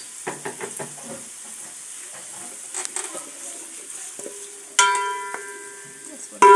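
Onions frying in oil in a pan, a steady sizzle with the scrape and click of stirring. Near the end come two ringing, bell-like metallic tones, the second louder.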